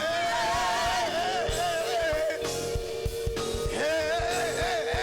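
Gospel praise song sung with instrumental accompaniment: a singer draws out the word "done" in a wavering melody over a steady beat, with a long held note through the middle.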